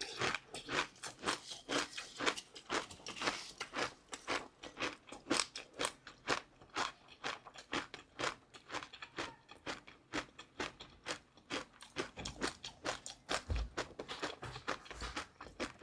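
Close-miked chewing of crunchy food, a steady run of crisp crunches about three a second.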